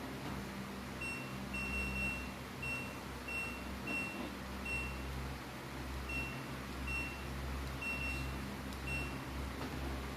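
A washing machine's electronic beeper sounding a string of short, high beeps, roughly one every two-thirds of a second with a brief pause midway. A steady low hum runs underneath.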